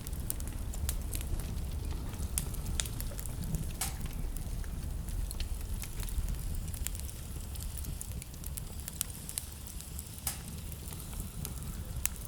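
Wood fire burning in a fireplace, crackling and popping irregularly, with a few sharper pops, over a steady low rumble.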